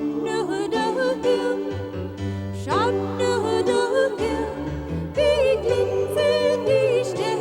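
Sacred Christmas music: singing voices with vibrato over a sustained low accompaniment, with a few quick upward gliding notes.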